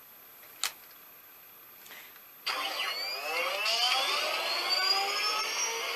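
A single click, then about two and a half seconds in the Hess Space Cruiser toy plane's electronic jet-engine sound effect starts, played through the toy's small speaker: a start-up whine with several tones rising steadily in pitch.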